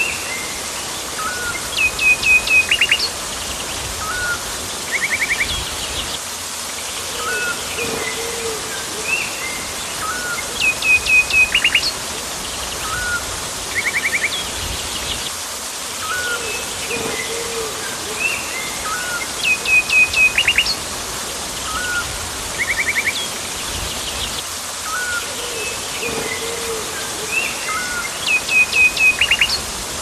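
Several birds call over a steady background hiss of jungle ambience. The same set of calls repeats about every nine seconds. The loudest is a quick run of sharp whistled notes, with a short trill and lower single notes in between.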